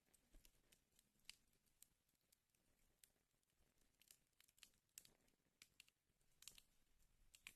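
Wood fire crackling in a fireplace: faint, irregular sharp pops and snaps.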